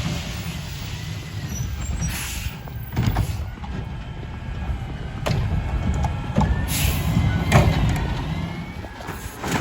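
Garbage truck engine running with a steady low rumble, and two short, sharp hisses of air, one about two seconds in and one near seven seconds. A few clunks and a faint wavering whine come in between.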